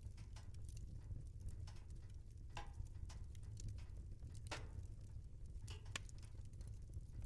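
Wood fire crackling in a fireplace: irregular sharp pops and snaps over a steady low rumble, with a few louder snaps about two and a half, four and a half and six seconds in.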